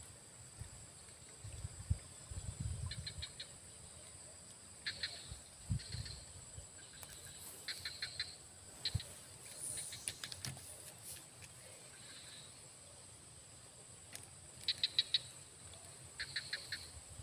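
Faint outdoor ambience: a bird calling in short runs of four or five quick high notes, repeated every few seconds, over a steady high-pitched hum, with a few soft low bumps.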